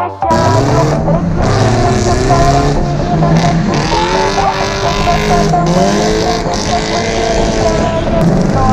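BMW E36's engine revving hard while driving, its pitch rising and falling repeatedly, over steady road and tyre noise.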